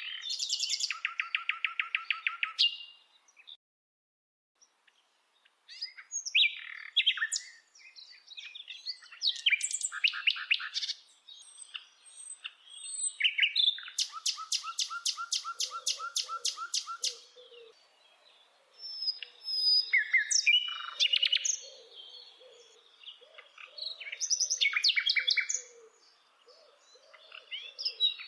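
Bird singing in phrases of fast trills and chirps, each a few seconds long, with short pauses between them and one brief silent gap a few seconds in. Softer low notes sound underneath in the second half.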